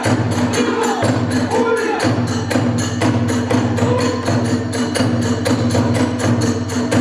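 Hiroshima kagura accompaniment of drums and small hand cymbals playing a fast, steady beat of about five strokes a second, with a pitched line gliding over it early on.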